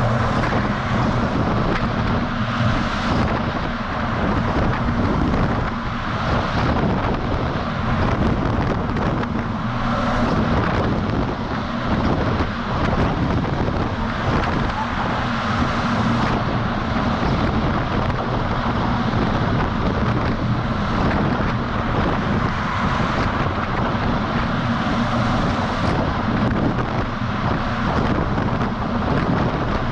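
Wind rushing over the microphone of a camera mounted on the outside of a moving DAF XF semi truck, with the truck's diesel engine running steadily and tyre noise underneath.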